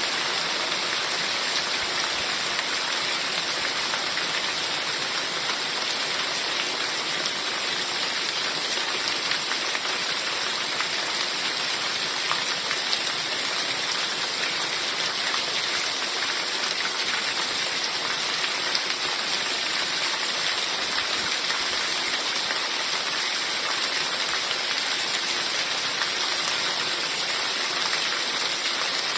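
Heavy rain falling steadily: a dense, even hiss of countless drops, with no breaks or single sounds standing out.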